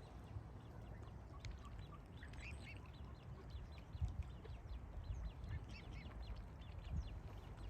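Birds calling with many short, high chirps over a constant low rumble.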